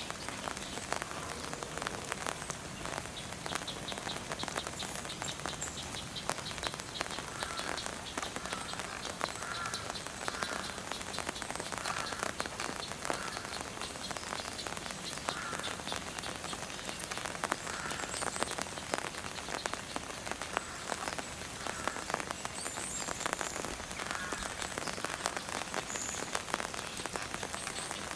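Steady rain falling, with many separate drops clicking close by.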